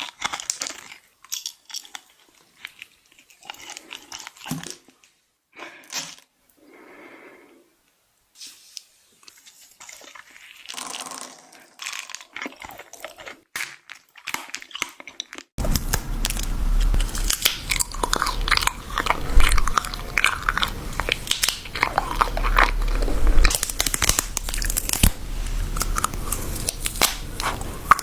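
Close-miked eating: crisp bites and crunchy chewing, with silent gaps at first. About halfway through it switches abruptly to denser, louder crunching over a steady low hum.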